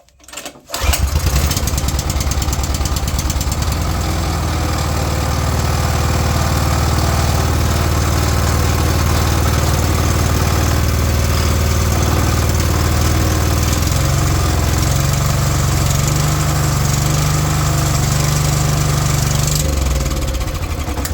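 Small single-cylinder petrol engine of a water blaster, running on a newly fitted carburettor, catches about a second in and runs steadily with the choke on and the throttle set to fast. Its note shifts partway through, then it falters near the end and dies away: on the fast setting it won't keep running.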